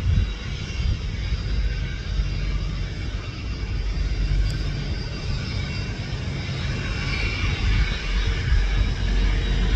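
Fixed-wing aircraft engines running: a steady low rumble with a faint high whine, slowly growing louder.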